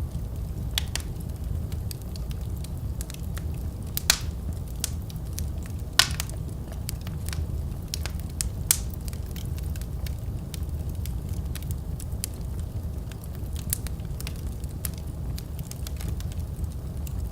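Wood fire crackling in a fireplace: a steady low rumble of flames with frequent small pops and snaps, the sharpest snaps about four and six seconds in.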